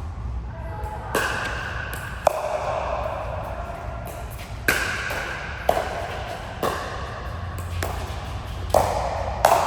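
Ball being struck back and forth in a rally: sharp hits with a short ringing tail, about one a second, over steady room noise.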